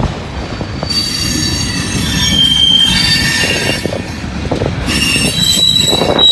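Freight train rolling past, its car wheels squealing against the rails. Several high squeals come and go over the low rumble and clatter of the cars.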